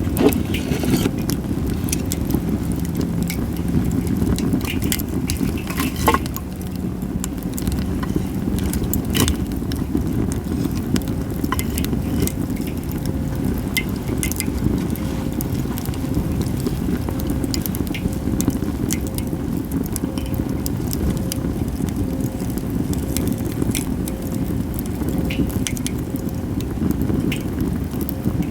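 Japanese cedar (sugi) firewood burning in a campfire, crackling with many scattered sharp pops over a steady low rumble.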